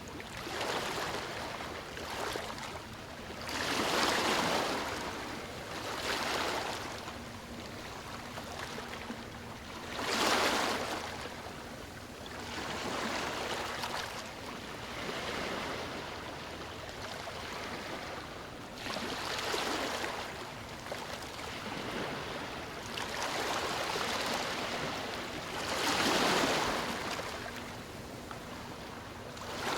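Sea waves breaking, the rush of surf swelling and falling away every few seconds.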